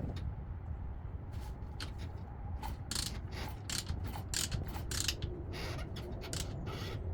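Irregular metallic clicking and ratcheting from hand work on a 140cc pit bike engine as it is turned over slowly to check the valves.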